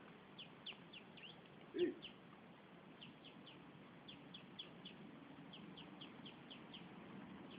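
Birds peeping: short, high, falling chirps in quick runs of three or four, repeating throughout, with one short, louder low call about two seconds in.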